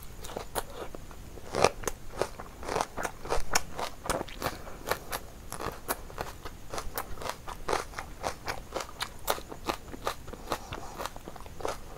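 Close-miked eating sounds: crisp crunches from bites of raw onion and green chili amid steady chewing, many short sharp crunches throughout.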